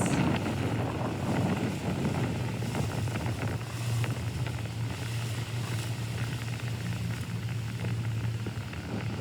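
Outboard motor of a coach boat running at a steady pitch, its low drone growing stronger about a third of the way in, with wind noise on the microphone over it.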